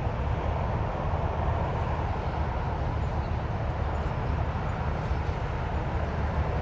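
Steady rumbling noise, heaviest in the low end, with no distinct calls or knocks.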